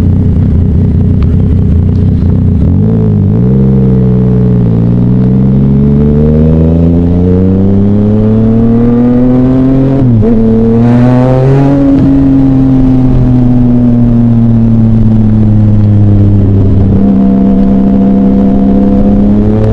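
Yamaha Tracer motorcycle engine pulling hard, its revs climbing steadily through a gear with a brief dip at a shift about ten seconds in. After that the revs ease off slowly and level out near the end.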